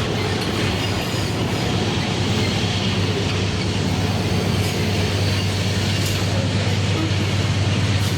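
Freight train running by: a steady low drone with the continuous rolling noise of wagons on the rails.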